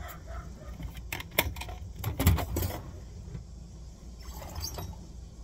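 Metal tools clinking and clattering as they are handled, in a few short clusters of sharp clicks and knocks, with no drill running.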